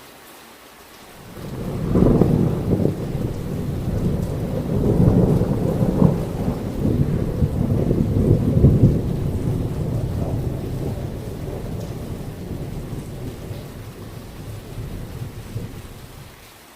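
A long roll of distant thunder over steady heavy rain: a low rumble that builds about a second in, swells several times, then slowly dies away near the end.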